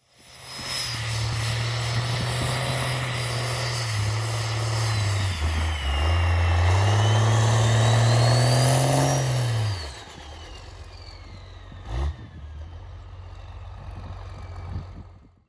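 Cummins diesel drag truck engine running hard for about ten seconds, dipping briefly and then climbing again, with a high whine that falls and rises with the revs. It then drops back to a quieter, steady run, with a single sharp knock a couple of seconds later.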